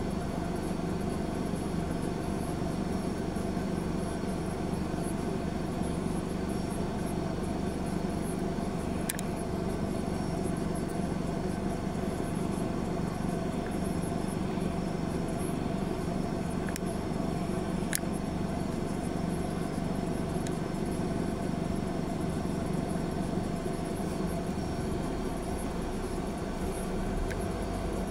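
Steady hum of a car idling in stalled traffic, heard from inside the cabin, with a couple of brief faint clicks about nine and eighteen seconds in; near the end the low rumble grows as the car starts moving off.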